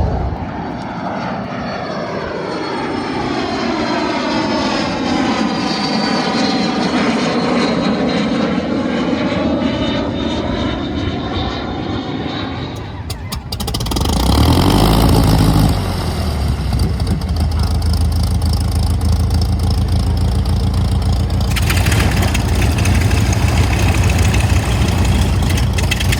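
Propeller airplane engine droning as it passes, its tone sweeping down and back up. About halfway through, a closer piston aircraft engine revs up briefly and then runs steadily.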